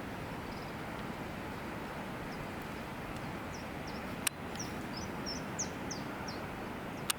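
Small songbirds chirping: short high notes, sparse at first, then a quick run of a dozen or so from about halfway in, over a steady rushing background noise. Two sharp clicks, one midway and one near the end.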